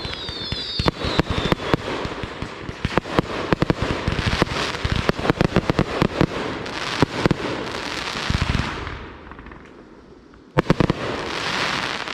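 Consumer fireworks going off in rapid succession: dense popping and crackling, with falling whistles in the first second or two. The popping thins out about nine seconds in, then a last cluster of sharp bangs and a hiss near the end.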